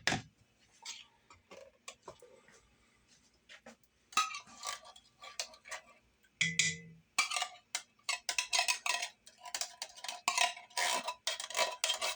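Metal spoon scraping and clinking against metal, in quick repeated strokes starting about four seconds in, typical of condensed soup being spooned out of a can into the pot, after a single sharp click at the start.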